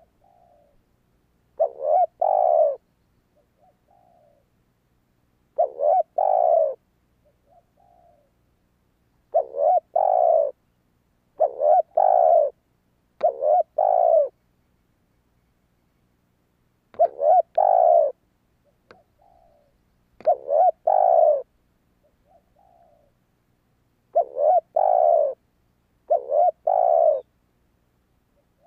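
Spotted dove cooing: about nine loud phrases of two or three deep coos, each about a second long and repeated every few seconds, with short soft coos between them.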